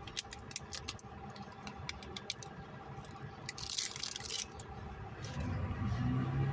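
Small clicks and light rattling of parts being handled, with a short rustle about three and a half seconds in and a low hum-like sound coming up near the end.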